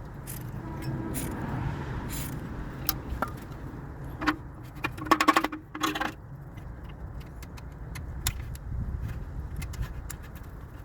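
Metal hand tools clinking against metal, scattered single clicks with a quick run of several about five seconds in, over a low steady rumble.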